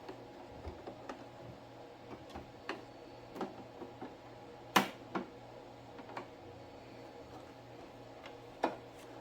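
Scattered light clicks and taps from handling a stopped sewing machine and its work, with a sharper click about five seconds in and another near the end.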